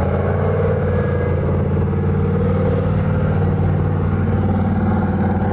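Turbocharged LS V8 of a lifted, monster-tyred Chevy Camaro running steadily at low revs as the car drives slowly past.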